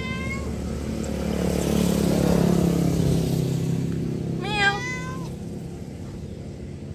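A domestic cat meows twice: a short meow at the very start and a longer, louder one about four and a half seconds in. Between the meows a motor swells and fades in the background, its pitch slowly falling as it passes.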